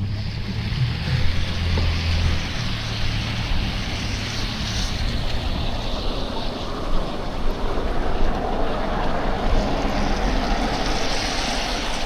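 Steady rushing hiss of a snowy city street while cycling, wheels on slush and wind on the microphone, with a low engine hum in the first couple of seconds.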